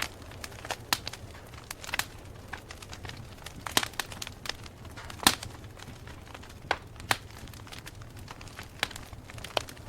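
Campfire burning with irregular sharp crackles and pops of wood over a low steady rumble, the loudest pop about five seconds in.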